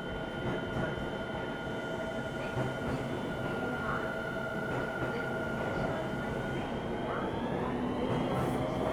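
Keio 7000 series electric train running: a steady rumble of wheels on the track under several high whining tones from the traction motors, which begin to rise in pitch about seven seconds in as the train picks up speed.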